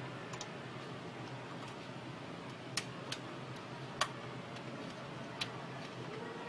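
A few light, sharp clicks, four of them irregularly spaced and the loudest a little past the middle, over a steady low hum: small hard parts or tools being handled.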